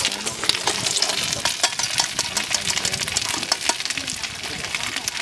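Food sizzling in hot oil, a dense crackling hiss full of small pops.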